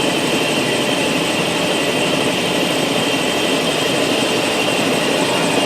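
Helicopter turbine and rotor noise heard inside the cabin in flight: a steady, dense, loud drone with a constant high whine over it.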